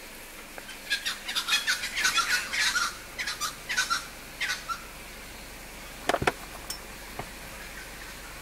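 A bird calling in a fast run of high, downward-sweeping chirps and squawks for about four seconds, then a couple of sharp clicks about six seconds in.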